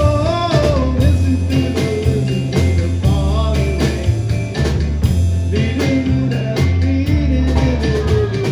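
Band music with a steady, repeating bass line and a sung or played melody over it.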